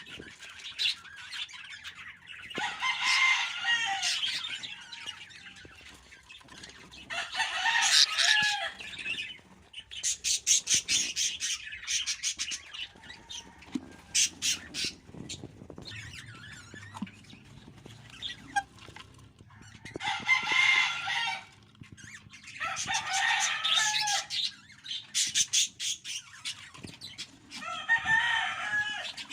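Budgerigar chicks calling from the nest in bursts of a second or two, about six times, with a run of rapid sharp clicks in the middle.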